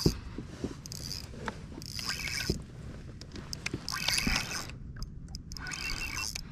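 Spinning fishing reel working in short bursts of rattling, clicking sound, about five times, while a hooked trout is played.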